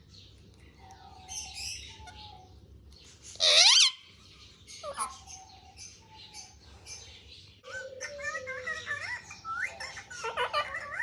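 Pet parrot calling: faint short whistles, one loud harsh screech about three and a half seconds in, then a run of warbling chatter through the last few seconds.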